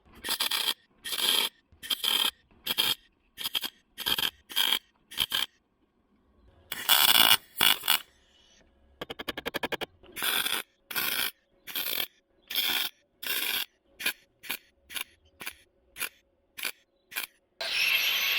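Repeated short scraping strokes on steel sheet metal, about one and a half a second, with a longer stroke about seven seconds in and a quick run of rasping clicks a couple of seconds later, as a rust-repair patch is worked to fit. A louder, fuller scrape starts near the end.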